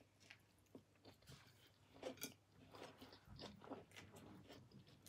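Faint close-up chewing of a mouthful of cheddar-jalapeño stuffed cheeseburger: scattered soft wet smacks and mouth clicks, busiest about two to four seconds in.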